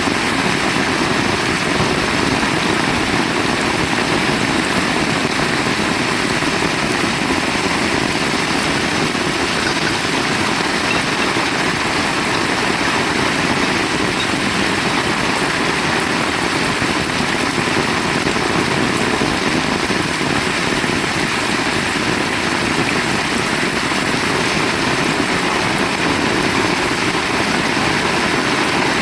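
Heavy rain pouring down, a dense, steady hiss that holds at the same level throughout.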